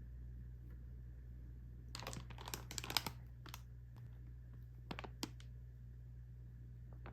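Plastic food packaging handled: a quick flurry of crinkles and clicks about two seconds in, then a few more sharp clicks around five seconds, over a low steady hum.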